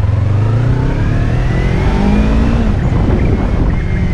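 Yamaha MT-03's 321 cc two-cylinder engine under hard braking, its note falling as the motorcycle slows, with wind rushing over the helmet-mounted microphone.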